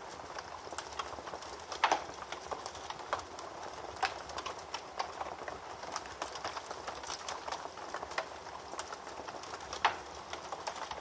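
Wood fire crackling in a fireplace: a steady hiss of burning with frequent sharp pops and snaps, two of them louder, about two seconds in and near the end.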